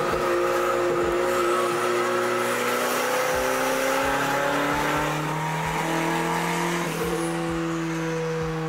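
Turbocharged pickup engine running under full load on a chassis dynamometer during a power pull, its pitch climbing slowly as the revs rise.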